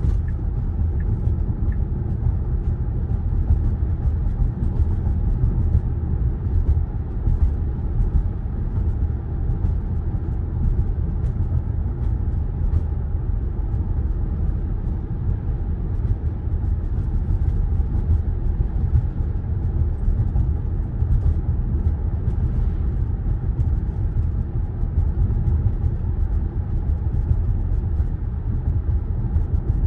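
Steady low rumble of tyre and road noise from an electric Tesla Model Y driving on a country road, heard inside the cabin.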